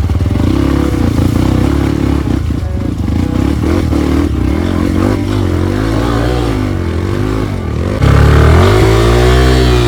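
Off-road motorcycle engine revving up and down, its pitch rising and falling repeatedly, louder from about eight seconds in.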